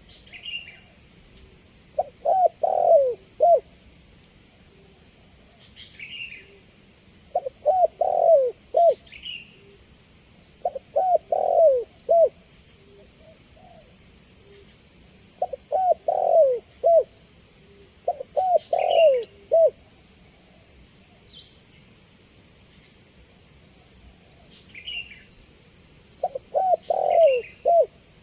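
Spotted dove (tekukur) cooing in repeated phrases of several coos, about six phrases a few seconds apart. Faint high chirps from smaller birds come between them.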